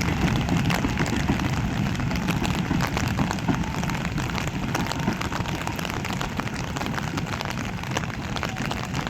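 Steady rain falling, with the low rumble of an oil tanker train rolling on the rails that slowly fades.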